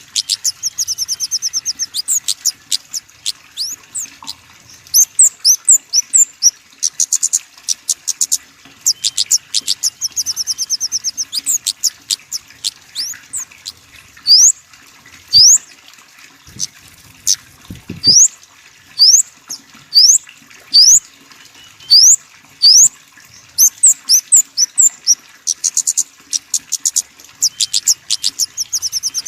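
Small songbird calling: rapid high-pitched trills of short chip notes alternating with single sharp rising notes, repeated about once a second through the middle.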